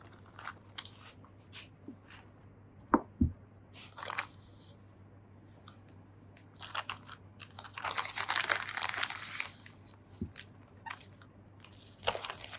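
Small parts being handled on a workbench: scattered light clicks and taps, two sharp knocks about three seconds in, and a crinkly rustle lasting a couple of seconds past the middle.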